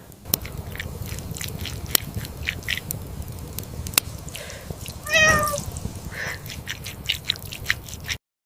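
Open wood fire crackling, with irregular sharp pops over a low rumble. About five seconds in, a short wavering animal call rises over the fire. The sound cuts off suddenly near the end.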